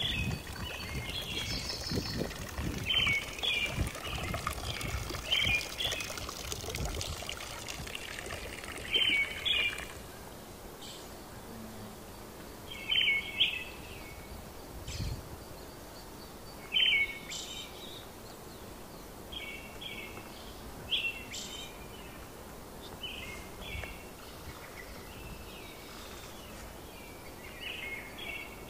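A small songbird singing short chirping phrases, repeated every one to four seconds. Behind it is a steady outdoor background hiss that eases off about a third of the way in.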